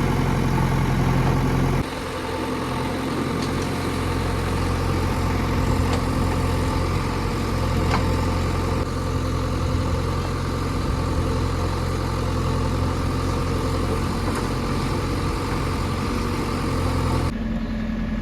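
A diesel engine running steadily at idle. Its sound changes abruptly about two seconds in and again shortly before the end.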